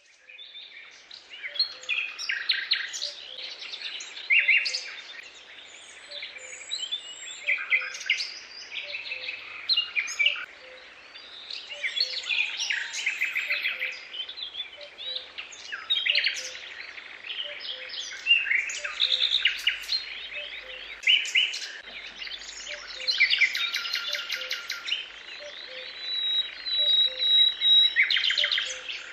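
Several songbirds singing together: a dense chorus of chirps, warbles and fast trills, with no pause.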